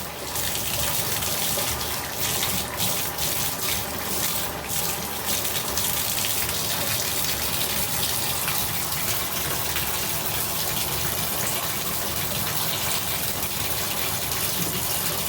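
Water running steadily out of a Delta shower valve opened to full hot, its temperature-limit stop turned all the way up.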